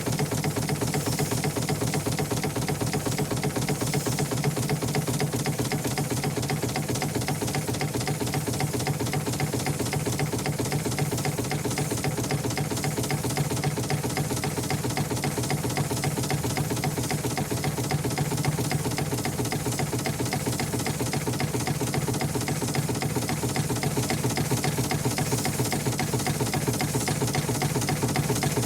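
An engine running steadily at constant speed, with a fast, even pulse of firing strokes.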